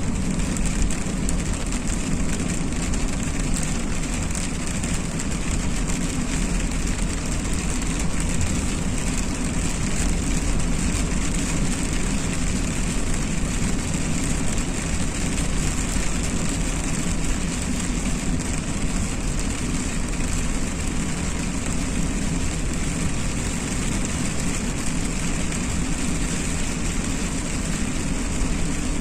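Steady road noise of a car driving in the rain: a low rumble of engine and tyres with a constant hiss of water, unchanging throughout.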